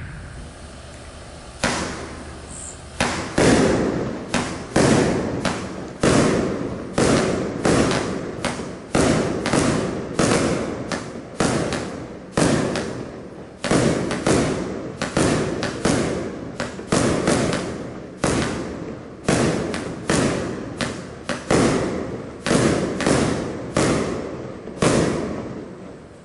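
25-shot consumer firework battery (cake) firing: a steady hiss for the first second and a half, then a sharp bang roughly once a second, each trailing off, as the shots go up one after another.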